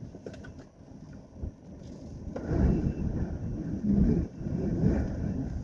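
Strong gusting storm wind, faint at first, then much louder about two seconds in as the car door is opened to it, rising and falling in gusts.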